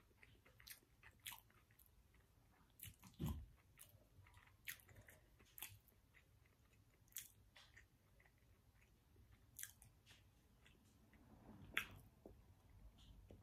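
Faint close-up chewing and mouth sounds: soft, wet clicks scattered irregularly, with a couple of louder dull knocks about three seconds in and near the end.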